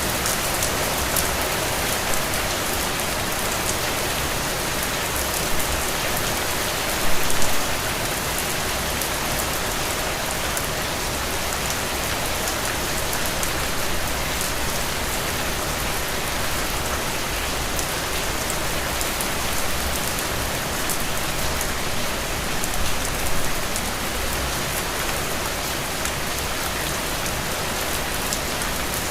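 Heavy rain falling steadily, a dense even hiss of drops, with brief louder bursts about seven and about twenty-three seconds in.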